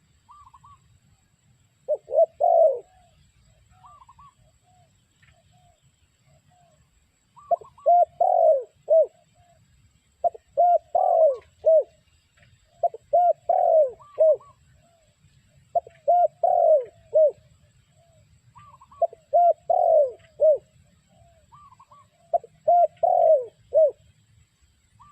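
Spotted dove cooing: about seven phrases of several low coos each, repeating every two to four seconds, with softer, higher short notes between the phrases.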